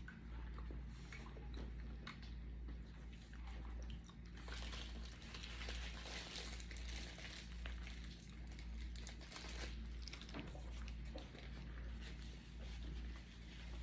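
Quiet eating sounds: a food wrapper crinkling and small crunches of chewing, over a steady low hum.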